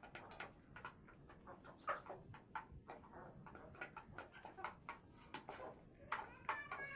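Layer hens feeding: many small sharp clicks as they peck, with soft calls among them and a higher, pitched call near the end.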